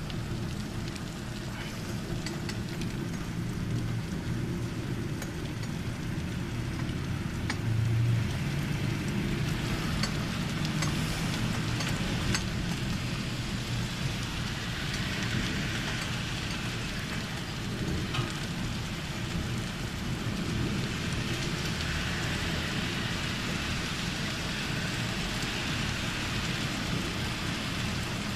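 Thunderstorm rain falling steadily, with a few sharp ticks and a low rumble of thunder, loudest about eight seconds in. The rain grows heavier in the second half.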